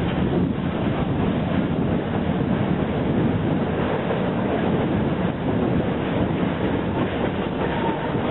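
Zoo railroad train rolling along the track, heard from on board: a steady rumble and rattle of the cars and wheels on the rails.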